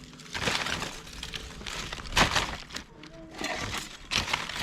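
Litter being gathered up by hand: an irregular run of crinkling and crunching handling noises, the loudest about two seconds in.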